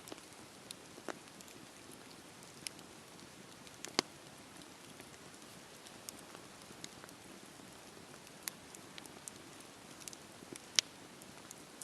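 Campfire burning: a steady soft hiss with sharp crackles and pops at irregular intervals, the two loudest pops about four seconds in and near the end.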